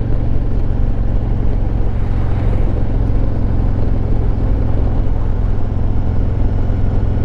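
Harley-Davidson Road Glide Limited's Milwaukee-Eight 114 V-twin running at a steady cruise while riding, its pitch holding level.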